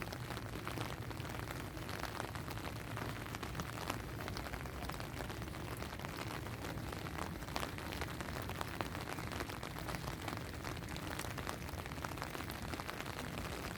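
Steady rain with many close drops ticking sharply, over a constant low rumble.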